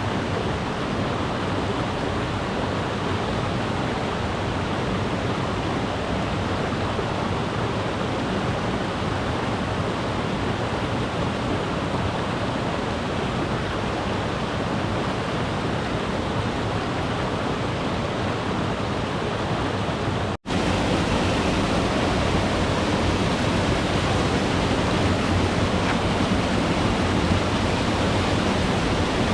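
Mountain river rushing in a steady roar of water. A split-second break about two-thirds of the way through, after which the water is a little louder.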